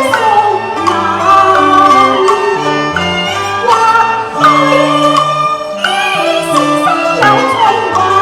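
Traditional Chinese ensemble music: a bowed-string melody with sliding notes over held bass notes.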